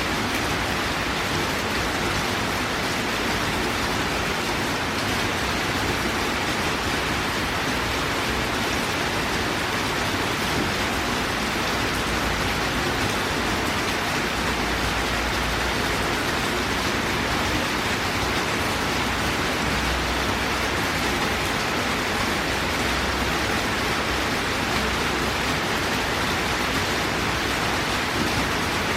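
Torrential downpour: heavy rain falling in a steady, even hiss.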